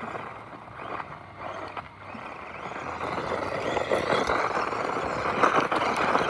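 Radio-controlled car driving over the ground, its motor and tyres making a noisy whir that grows louder from about three seconds in.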